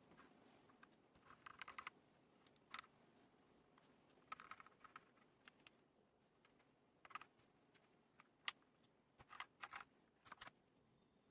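Faint typing on a mechanical keyboard with Akko CS Lavender Purple tactile switches and PBT pudding keycaps, in short bursts of keystrokes separated by brief pauses.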